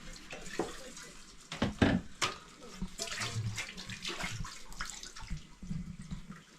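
Water pouring and splashing, as in washing something in a basin. Several sharp knocks about two seconds in are the loudest part, like a pot or dish being handled.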